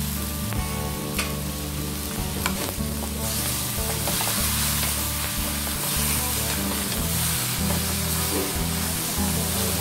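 Chicken feet sizzling in a hot wok as a wooden spatula stirs and tosses them, with a few sharp scrapes of the spatula against the pan in the first few seconds. The sizzle grows louder after about three seconds.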